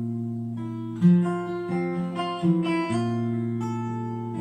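Acoustic guitar playing: strummed chords left to ring, with a fresh strum roughly every half second to second.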